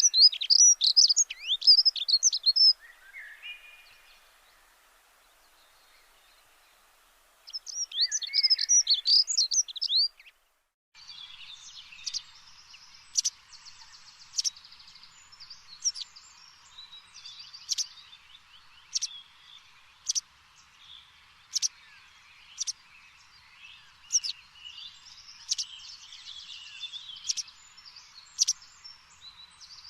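Birdsong. Two bursts of rapid, varied warbling come in the first ten seconds. Then, after an abrupt change, one bird repeats a short, sharp chirp about once a second over fainter chirping from other birds.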